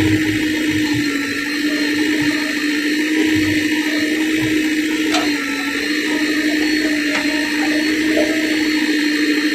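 JCB backhoe loader's diesel engine running steadily, with a constant droning hum over a rushing noise.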